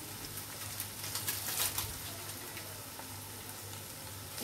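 Egg bhurji frying in oil in a non-stick pan, a faint steady sizzle with a few light crackles about a second and a half in.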